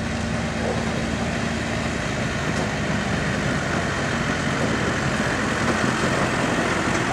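Farm tractor engine running at a tractor pull, its sound slowly building louder.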